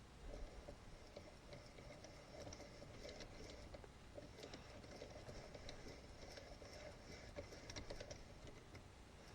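Faint, irregular light clicks and rattles from a thread-cutting die and hand tools being handled.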